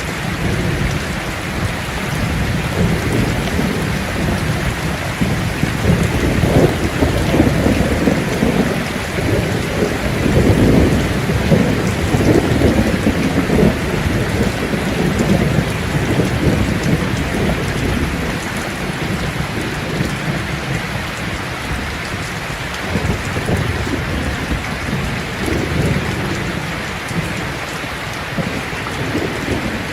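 Steady heavy rain pattering on a surface, with a low rumble of thunder that swells and rolls through the middle of the stretch.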